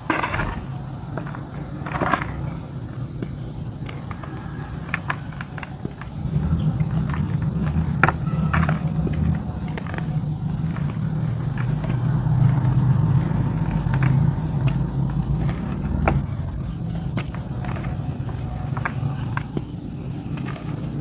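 Chunks of dry white clay dirt crumbling and cracking, with scattered short sharp cracks and crunches over a steady low rumble that swells from about six seconds in and eases off after sixteen.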